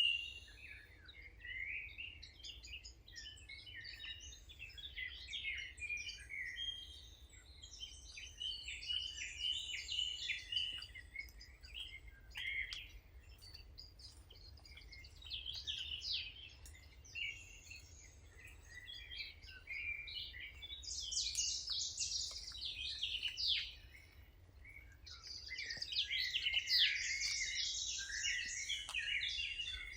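Several songbirds singing and chirping over one another in quick, overlapping phrases, with a louder, busier burst of song about two-thirds of the way in and again near the end.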